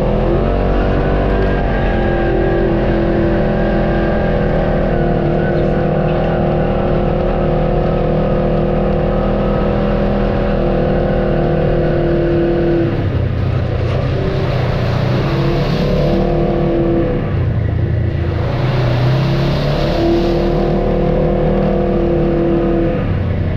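Off-road vehicle engine running steadily under load, its pitch dropping and rising a few times as the throttle changes.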